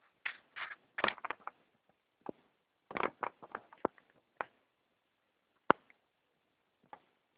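A sleeping dog making short, irregular snorts and snuffles while dreaming, with a few sharp clicks among them.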